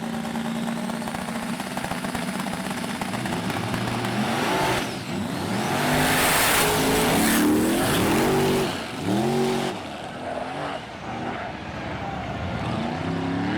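A drag-racing truck's engine accelerating hard down the strip. Its pitch climbs and drops several times in a row as it shifts up through the gears, and it is loudest from about five to ten seconds in, then fades.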